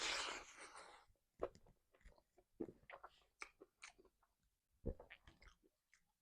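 Close-miked chewing and biting: a series of short wet mouth clicks, smacks and crunches, after a loud breathy rush of noise in the first second.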